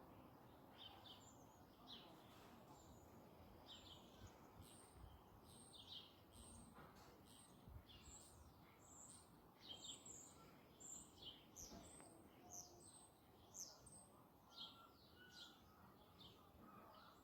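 Faint, high-pitched chirping of small birds: many short notes scattered throughout, thicker after the first few seconds, over a low outdoor background hum.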